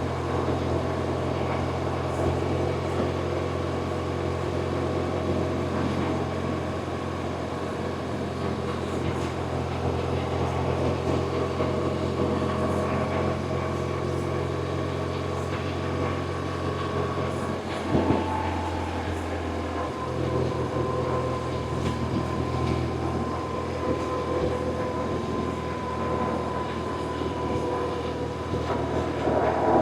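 BMW R1100RT's boxer twin engine running at a steady pace while the motorcycle is ridden. About eighteen seconds in there is a brief knock, and the low engine note drops away for about two seconds before it returns.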